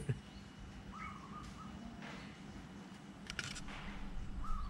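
A bird calling twice, one short, level note each time: once about a second in and again near the end, over faint background hiss. A few soft clicks come a little past halfway.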